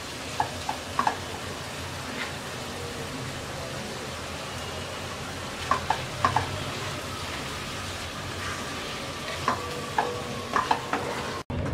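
Cabbage and boiled eggs sizzling in a non-stick kadai as the last of the cooking water cooks off, stirred with a wooden spatula. Short light knocks of the spatula against the pan come in small clusters near the start, about six seconds in and near the end.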